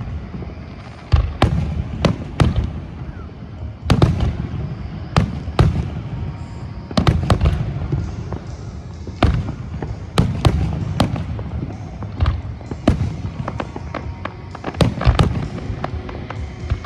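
Fireworks display going off: a rapid, irregular string of sharp bangs from bursting shells over a continuous low rumble.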